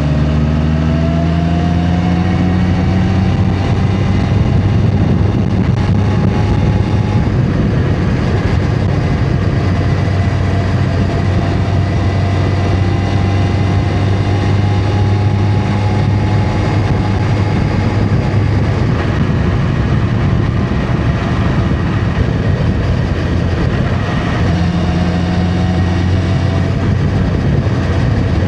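Honda CB650R's inline-four engine running under way, rising in pitch as the bike accelerates over the first few seconds, then holding a steady cruise and pulling up again briefly near the end, over steady road and wind noise.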